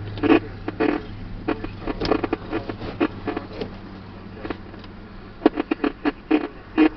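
Irregular sharp taps, a couple of dozen in all, thickest and loudest near the end: scattered large raindrops striking a hard surface close to the microphone as a thunderstorm arrives.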